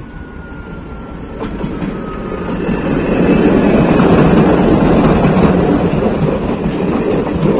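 ALCO diesel locomotive hauling passenger coaches passing close by. The sound of the locomotive and its wheels on the rails swells from about a second and a half in and stays loud as the coaches roll past.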